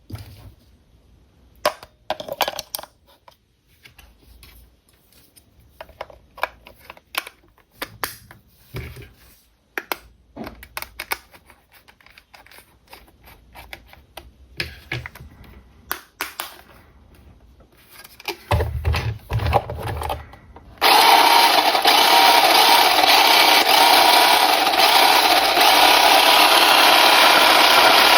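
Scattered clicks and rustles of a toy and its plastic packaging being handled. About 21 seconds in, the small electric drive motor of a 1:20 scale RC car starts and whirs loudly and steadily.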